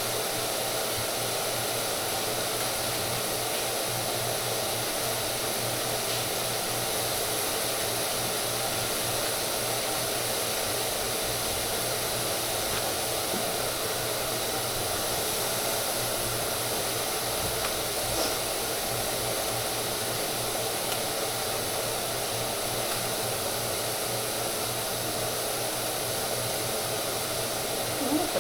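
A steady whooshing noise with a low hum, unchanging throughout: an electric motor blowing air, such as a hair dryer or fan.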